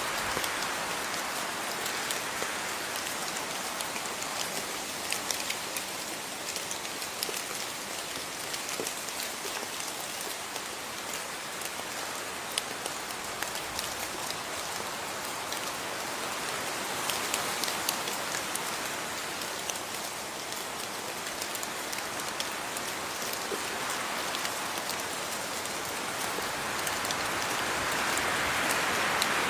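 Steady rain falling, with many small drops pattering on a surface; it swells a little louder near the end.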